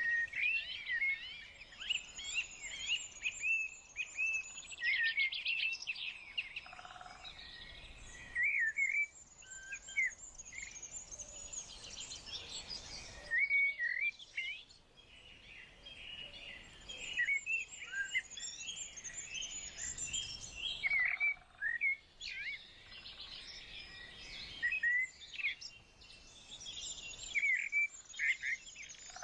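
Several small birds singing and chirping at once: a dense chorus of short twittering calls and trills that comes in waves with brief lulls.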